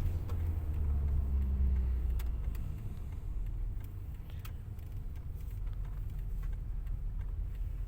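Low, steady rumble of a car running, easing a little about three seconds in, with a few faint clicks over it.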